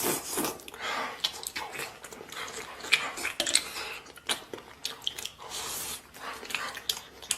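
Close-up chewing and mouth sounds of a person eating soft stewed pork spare ribs: irregular wet smacks and clicks.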